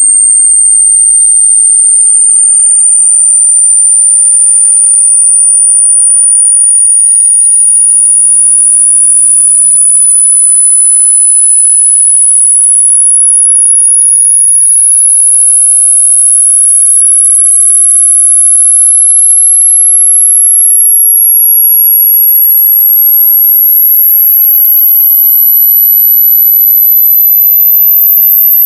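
Electronically generated, very loud, high-pitched single tone, gliding slowly and steadily upward in pitch.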